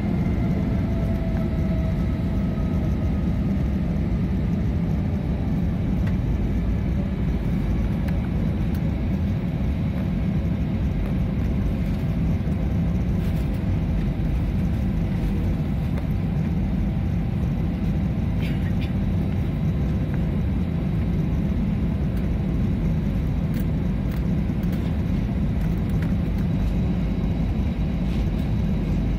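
Steady cabin noise of an airliner in flight: a constant deep rumble of engines and airflow. A few faint engine tones dip in pitch in the first couple of seconds.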